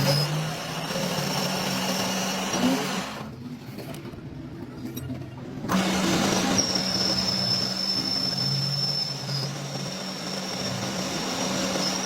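Machine tool running in a metal workshop: a steady hum under a thin, high-pitched whine and rough mechanical noise. It drops away sharply about three seconds in and comes back nearly three seconds later.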